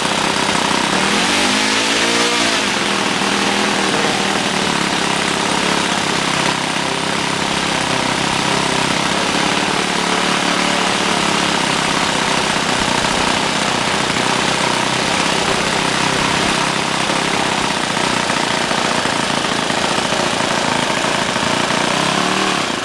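OS Max FS-52S single-cylinder four-stroke glow engine for RC planes, running loud and steady on its first start after sitting unused for 16 years. Its pitch shifts briefly about two seconds in, and it cuts off suddenly at the very end.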